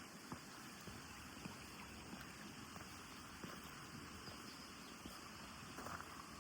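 Faint steady rushing of a waterfall, with a few light clicks scattered through it.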